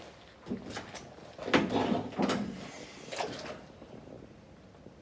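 A few scattered knocks and scrapes of things being handled, the strongest about a second and a half in, dying away after about three and a half seconds.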